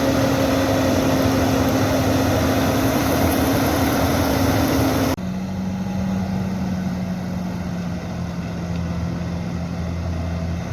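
Large tractor's engine running steadily at a constant pitch. About five seconds in it switches abruptly to a lower, duller steady note.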